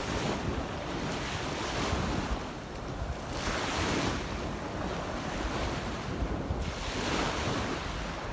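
Small waves washing on a beach, the wash swelling about every three seconds, with wind rumbling on the microphone.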